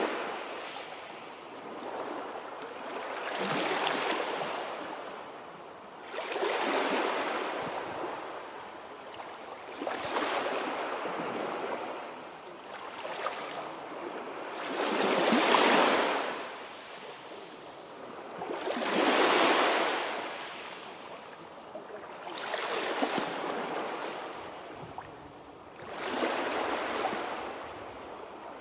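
Sea waves breaking on the shore, one wash swelling and fading every three to four seconds, about eight in all; the two near the middle are the loudest.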